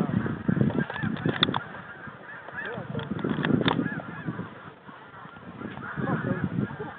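Snow geese calling: a dense chorus of many overlapping short honks.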